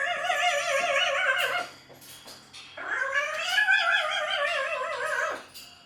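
A parrot gives two long, wavering, meow-like calls; the second rises and then falls in pitch.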